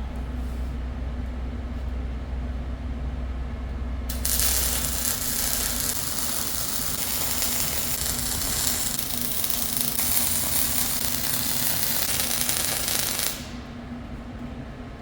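MIG welding run on heavy steel: a steady crackling hiss that starts about four seconds in, holds for about nine seconds and stops abruptly, over a low workshop hum.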